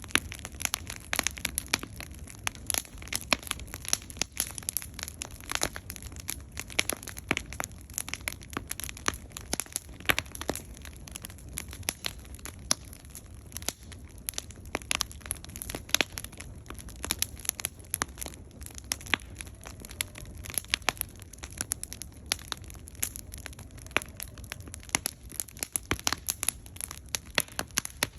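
Firewood burning in a campfire, crackling and popping in dense, irregular snaps over a low steady rumble.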